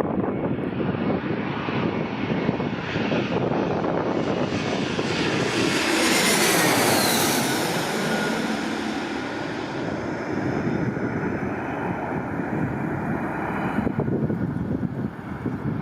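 Jet airliner flying past, its engine noise building to a peak about six to seven seconds in, with a whine that slides down in pitch as it passes, then fading. Wind buffets the microphone throughout.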